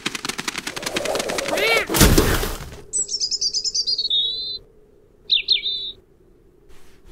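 Cartoon sound effects: a bird's rapid wing flapping, a short whistle, then a thump about two seconds in as a snowball lands. After that, a small bird chirps in two short bursts.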